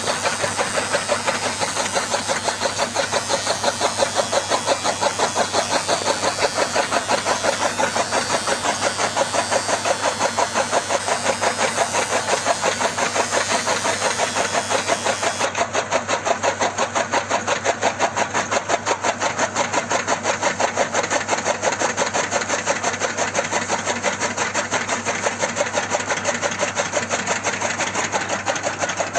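Homemade miniature chaff cutter running steadily, its motor and cutting mechanism giving an even, rapid, pulsing clatter of several beats a second.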